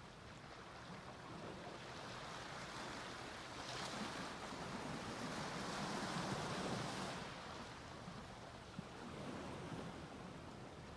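Sea waves breaking on a beach: a wave swells up and washes in about four seconds in, the hiss of surf peaking a few seconds later and then falling back.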